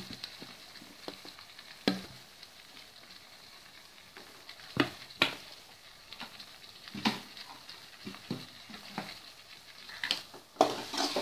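Onion-tomato masala sizzling quietly in an aluminium kadai over the flame, with a few sharp clicks as coriander powder is spooned in.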